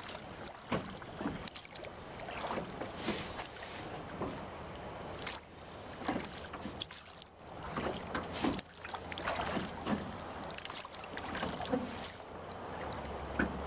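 Water splashing and sloshing around a small boat moving through floodwater current, with irregular splashes and knocks.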